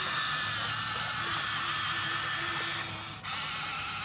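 Electric motor and plastic gearbox of a Huina 1573 remote-control dump truck whining steadily, with a brief break about three seconds in.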